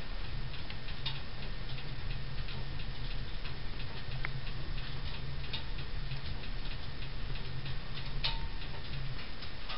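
Firewood catching on embers inside a wood-burning stove, crackling with many small irregular clicks and pops over a steady low hum.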